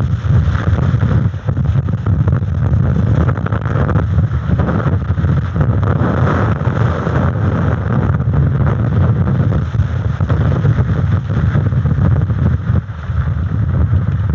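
Strong gusty wind buffeting an outdoor camera microphone: a loud low rumble that keeps rising and falling, with rushing noise on top.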